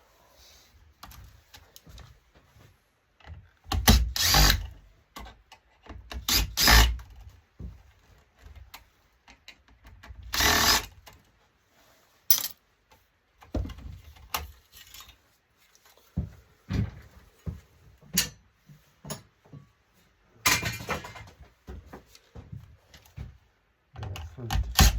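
Power drill/driver run in short bursts, about five times, taking screws out of the monitor during disassembly. Between the bursts there are short clicks and knocks of parts being handled.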